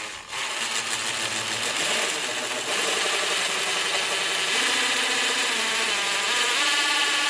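Power drill running under load, boring into the end of a pressure-treated 4x4 post to make room for the anchor bolt. It runs steadily, its pitch creeping up slightly in the second half.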